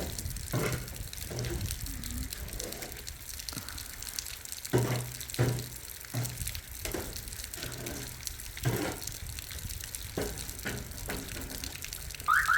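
Heavy rain falling steadily, with irregular dull thumps about once a second.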